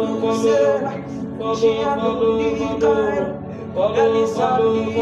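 Gospel worship music: a singing voice holds long, sliding notes over steady instrumental accompaniment.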